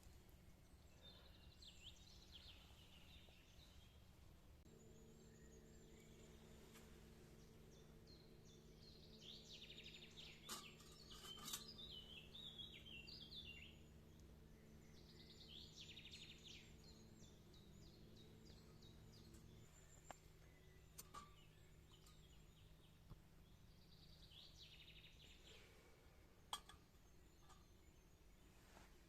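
Faint birdsong in quiet countryside: several high, quick warbling phrases come and go, the busiest about a third of the way in. A faint steady low hum runs under the middle of it, and there are a few soft clicks near the end.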